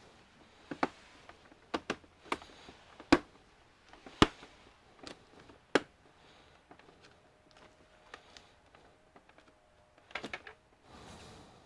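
Scattered sharp clicks and knocks of small tools, screws and plastic or metal computer parts being handled on a workbench, about a dozen over the stretch, the loudest near the middle, with a quick run of clicks near the end.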